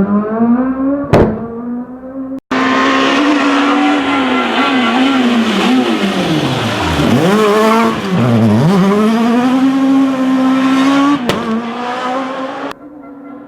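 Rally car engine revving hard. Its pitch drops sharply twice near the middle as the car brakes and shifts down, then climbs again. The sound breaks off abruptly a few times.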